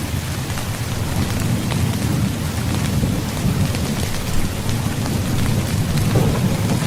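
Heavy rain falling steadily with a continuous low thunder rumble underneath, scattered drops ticking on a surface.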